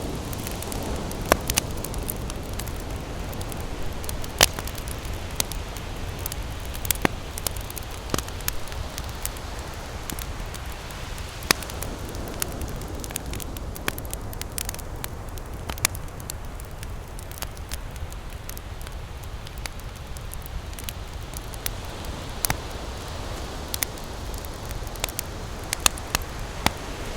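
Wood campfire crackling, with sharp pops coming at irregular intervals, over a steady low rush of ocean surf. A wave washes in at the start and another near the end.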